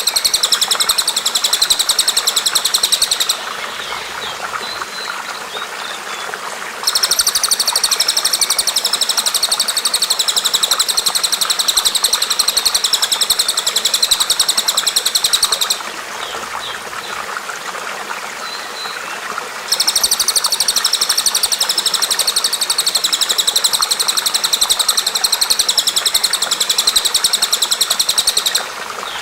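Bird song: long, very rapid, high trills lasting several seconds each, heard three times with short pauses between that hold only faint chirps, over a steady rush of running water.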